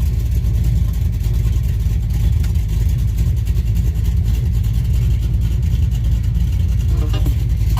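Chevrolet Malibu's V8 running with a steady, deep, mean-sounding rumble, with no revving.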